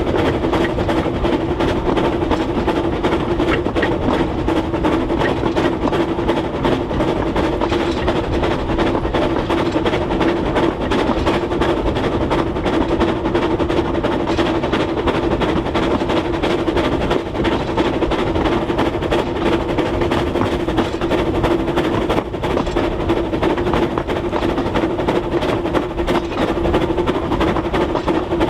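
Narrow-gauge train running steadily along the track, a continuous rumble and rail clatter with a steady hum.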